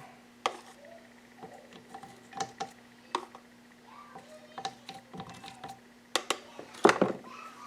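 Scattered light clicks and taps of engine parts and a small oil container being handled on a workbench while the crank bearings are oiled, over a faint steady hum. A sharper knock comes about seven seconds in.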